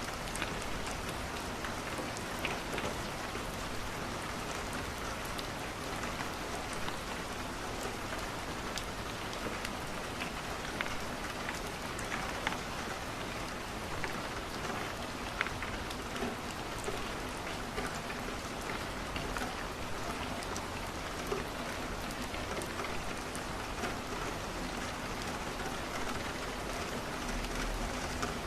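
Steady rain falling on a window, with scattered sharp crackles from a wood fire in a fireplace.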